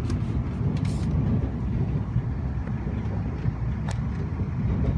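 Steady low rumble of an electric express train running on the rails, heard inside the passenger car, with a few light clicks.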